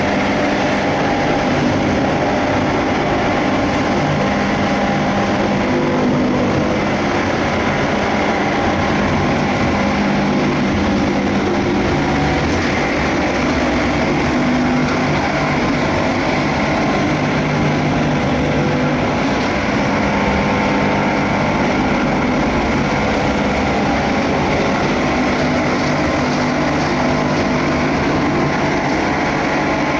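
Rormak 34 kW cutting machine running steadily while it cuts laminated plastic sacks: a loud, even machine noise with a low hum that does not let up.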